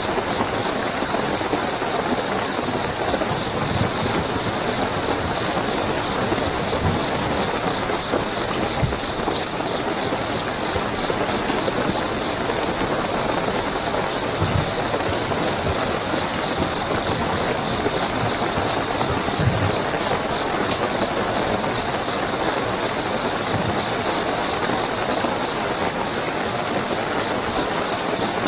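Steady heavy rainfall with a continuous high-pitched chorus of night crickets above it, and now and then a heavier drop landing with a low thud.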